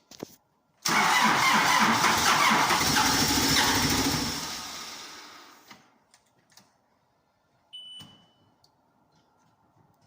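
A CAT 434F backhoe loader's diesel engine cranked on the starter for about four seconds, cold and without preheating, then winding down and stopping without staying running. A short beep about eight seconds in.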